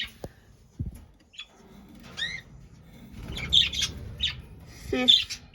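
Budgerigars chirping and squawking in short calls: a rising-and-falling chirp about two seconds in, then a cluster of harsher squawks a second later, over a low rumble of handling noise.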